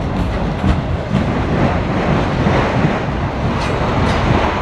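CSX freight train of autorack cars rolling past: a steady, loud rumble of steel wheels on rail, with scattered clicks as the wheels cross rail joints.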